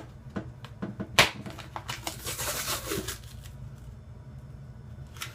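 A plastic tub of whey protein powder being opened by hand: a run of clicks and a sharp snap about a second in, then a second or so of rustling, tearing-like noise, quieter toward the end.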